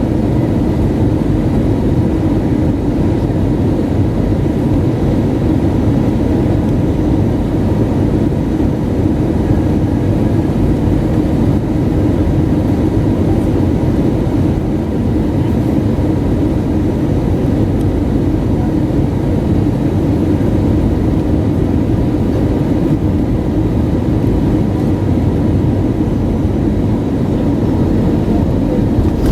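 Steady engine and airflow noise inside a jet airliner's cabin in flight, a low, even rush with no change in level.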